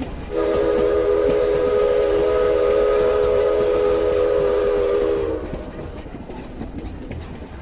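A train running with a rumble, sounding one long whistle blast of several notes at once. The blast holds for about five seconds and dips slightly in pitch as it cuts off, leaving the rumble to fade.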